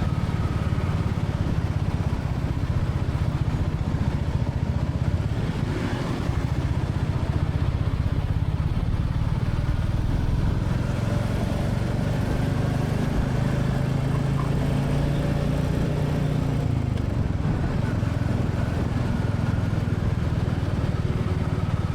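Royal Enfield Classic 350's single-cylinder engine running steadily as the motorcycle is ridden, its pitch shifting slightly partway through as the revs change.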